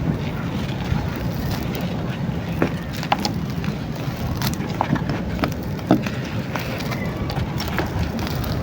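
Dry crumbly chunks being crushed, with scattered crunching clicks at irregular moments over a steady low rumble.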